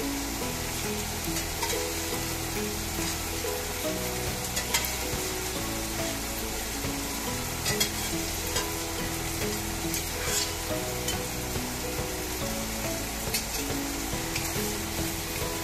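Squid rings and tomato sizzling as they sauté in a hot nonstick wok, a steady frying hiss with a few sharp clicks. Soft background music with a melody runs underneath.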